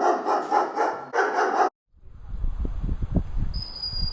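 Flat-coated Retriever puppies yapping in quick, rasping bursts, cut off abruptly less than halfway through. Then a low rumbling noise on the microphone with a thin, high, steady whistle near the end.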